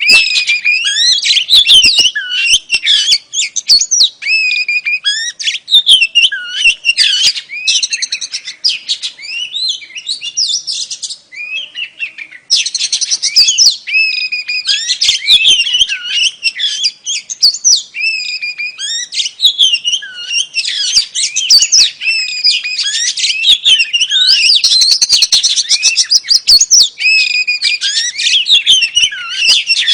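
Oriental magpie-robin (kacer), said to be a female, calling in a dense, rapid run of chirps and whistled, sliding notes, with a short lull near the middle. This is the kind of female call played to provoke male magpie-robins into singing.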